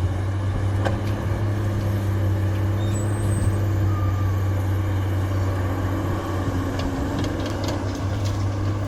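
Heavy diesel engine running at a steady speed, a deep even drone, with a few light metallic clicks and knocks about a second in and again near the end.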